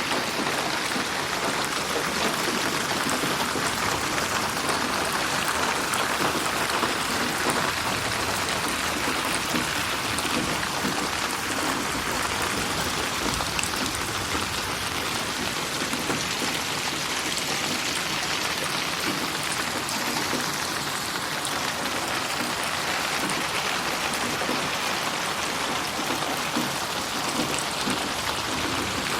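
Steady rainfall, an even hiss of rain with drops pattering on a surface, unbroken throughout.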